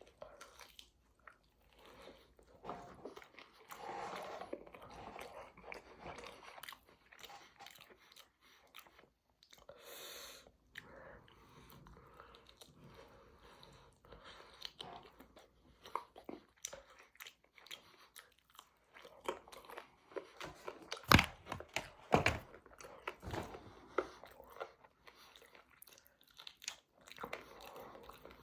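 Chewing and biting: wet mouth sounds with irregular crunches as food is bitten and chewed, with two sharp, loud crunches about two-thirds of the way through.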